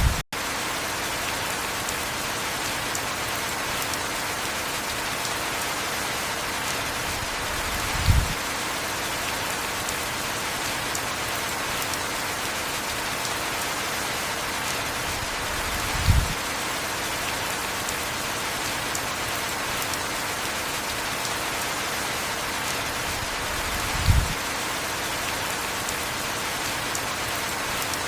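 Steady heavy rain with a dull, low thud about every eight seconds. There is a brief gap in the sound right at the start.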